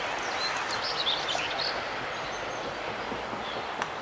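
Freight train receding, its wheels' rolling noise fading away, with birds chirping in short calls over it; one sharp click near the end.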